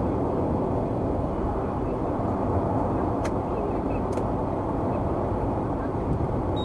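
Steady road and engine noise of a car cruising at highway speed, heard from inside the cabin, with two faint clicks in the middle.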